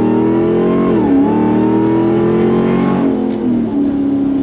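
Vehicle engine accelerating, its pitch climbing, dropping briefly about a second in as it shifts gear, then climbing again before falling back to a steady lower note about three seconds in.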